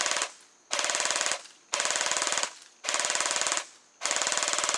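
Upgraded JG G36K airsoft electric rifle, with 16:1 gears and an M130 spring, firing short full-auto bursts. A burst ends just after the start, three more follow, and another starts about four seconds in. Each burst is a fast, even rattle of the gearbox cycling, about 25 rounds a second on an 11.1 V LiPo.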